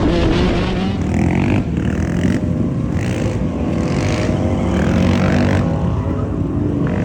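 Dirt bike engines running loudly, their pitch rising and falling as they rev.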